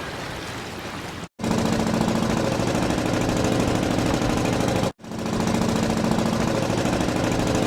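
A low background hiss, then after an abrupt cut a loud engine running steadily with a fast, even pulsing. Another cut comes about five seconds in.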